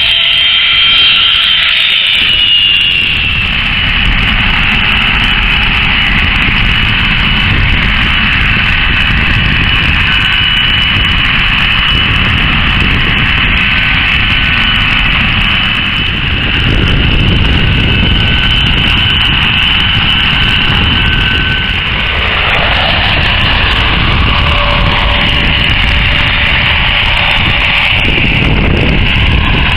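Airbus A330-300 jet engines running loud and steady, with a constant high whine over a low rumble.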